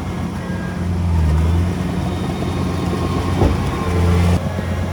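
Heavy diesel engine running with a deep, steady drone that swells louder twice and drops back suddenly near the end, with one sharp metallic knock a little past the middle.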